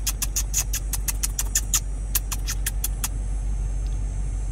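A car engine idling with a steady low hum. Over it, a quick, irregular run of sharp high clicks lasts about three seconds, and a few more come near the end.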